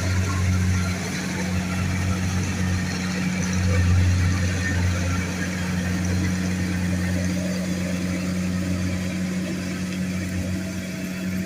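Kubota combine harvester's diesel engine running steadily with a deep, even hum, swelling slightly about four seconds in.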